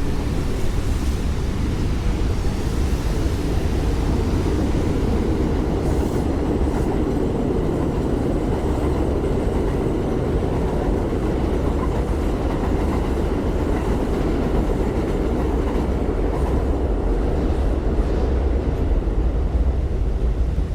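Elevated subway train passing on the overhead tracks above the street, a loud steady noise that swells a little in the middle.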